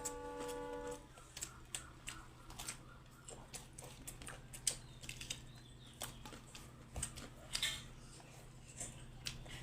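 Eating close to the microphone: irregular small clicks and crunches of chewing and of utensils, over a faint steady low hum.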